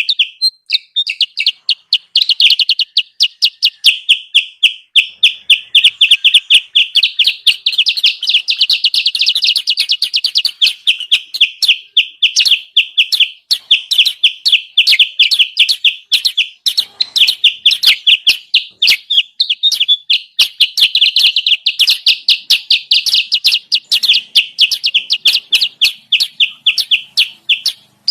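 Kutilang sutra bird-lure recording: a dense, fast stream of short high chirps, many a second, going on without a break.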